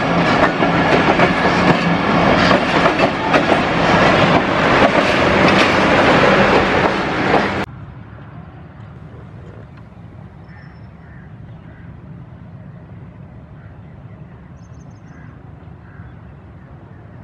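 Passenger train coaches passing close at speed, their wheels clattering loudly over the rail joints. About seven and a half seconds in, the sound cuts off suddenly to a much quieter, steady low rumble of a diesel locomotive standing at the station.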